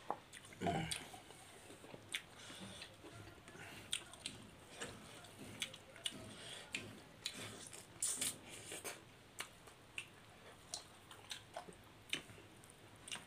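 Close-up eating sounds of two people eating fish curry and rice with their hands: chewing, lip smacks and small wet mouth clicks, irregular and faint, with louder ones about a second in and around eight seconds.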